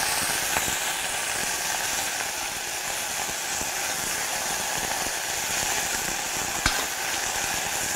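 Chopped onion and moringa flowers sizzling steadily in hot oil in a stainless steel pot while being stirred with a metal spoon, with one sharp knock near the end.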